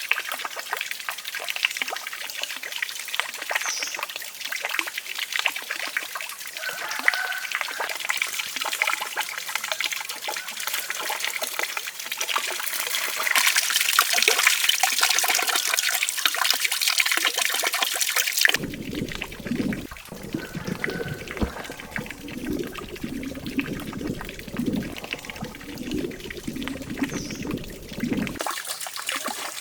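Water trickling and splashing, a steady hiss full of small clicks. It grows louder about two-thirds of the way through, then gives way abruptly to a lower, fuller sound for about ten seconds before the trickling returns.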